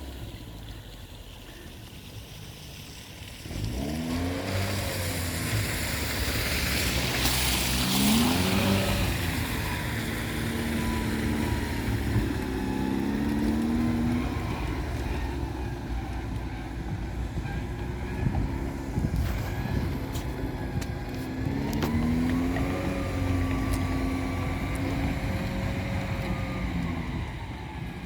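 All-terrain vehicle engine running and revving up several times, its pitch climbing with each acceleration. A brief rush of noise comes about seven to eight seconds in.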